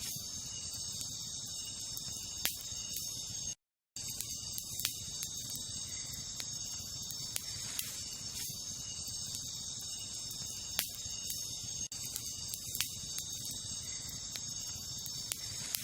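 Wood campfire crackling with scattered sharp pops over a steady, high-pitched chorus of night insects. The sound cuts out completely for a moment about three and a half seconds in.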